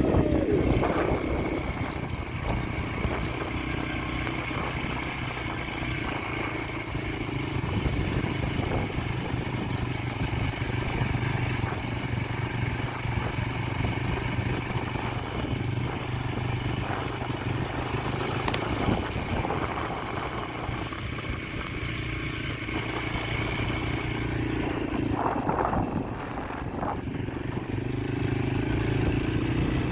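Yamaha TT-R125LE dirt bike's single-cylinder four-stroke engine running steadily under way, at an even pitch with no big revs.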